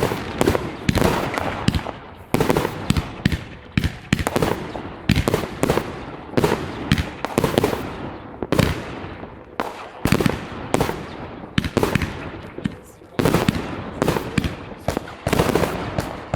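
Fireworks going off in a rapid, irregular string of sharp bangs and crackles, several a second, each with a short fading echo.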